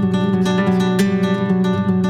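Acoustic guitar music with quick plucked and strummed notes.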